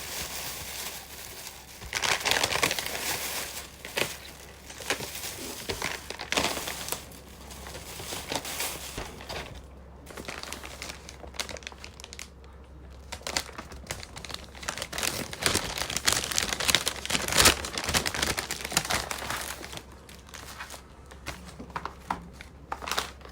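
Crinkly wrapping being handled and crumpled: irregular rustling with sharper crackles, loudest a little over halfway through.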